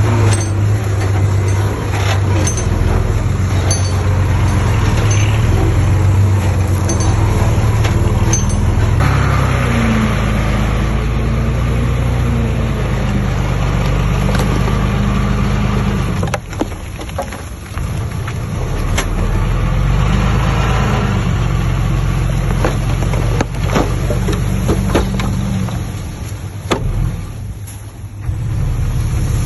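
Diesel engines of heavy earthmoving machinery running under varying load, their pitch rising and falling, with scattered clanks and knocks.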